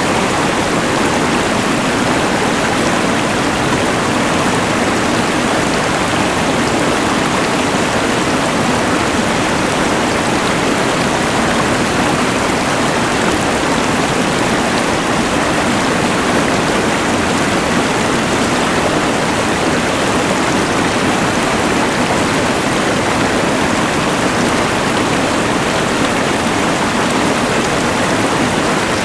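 Rushing mountain river mixed with the hiss of a LectroFan white noise machine: a steady, unbroken rush of water and noise.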